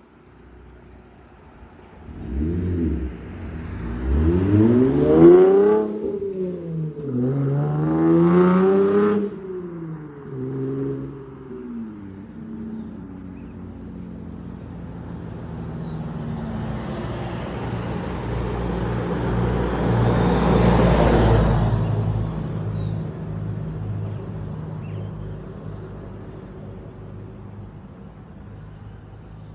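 Holden VF Commodore SV6's V6 engine and exhaust, revved four times in quick succession, each rev climbing and falling back. It then settles to a steady low note as the car comes past, growing louder to a peak about two-thirds of the way through and fading away.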